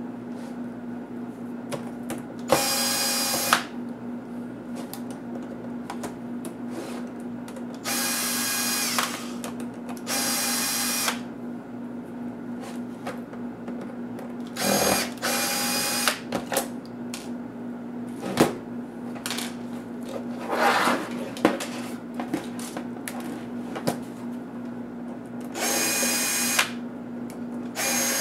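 Electric screwdriver whining in about six short runs of a second or less each, driving out small laptop case screws. Small clicks and taps sound between the runs.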